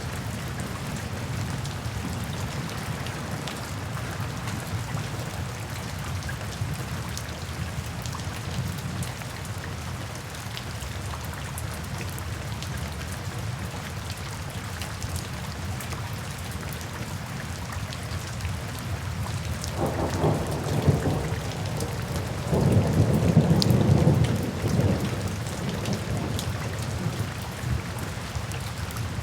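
Steady rain falling, with scattered ticks of individual drops. About twenty seconds in, thunder rumbles in two rolls, the second louder, then fades back under the rain.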